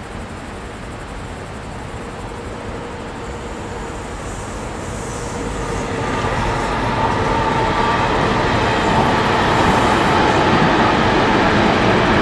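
Electric train approaching on the line, its rumble growing steadily louder, with faint whining tones coming in about halfway through.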